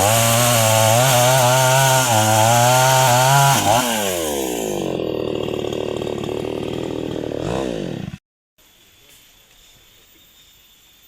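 Chainsaw running at full throttle while cutting wood. About three and a half seconds in, its revs fall and it runs at a lower, uneven speed. A short rev-up near the eight-second mark is followed by an abrupt cut-off, leaving only faint outdoor background.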